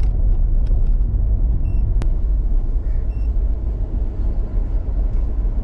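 Steady low rumble of a vehicle on the road, with two short high beeps about a second and a half apart and a sharp click in between.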